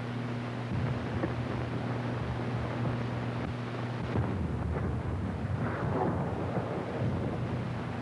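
Steady hum and hiss of a worn early sound-film soundtrack, with an uneven low rumble starting about a second in and rougher crackling bursts in the second half.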